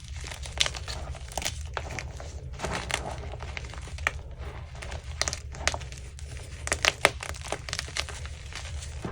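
Crunchy chunks of gym chalk being crushed and crumbled: a dense run of irregular crunches and crackles, with a few sharper cracks, the loudest about seven seconds in.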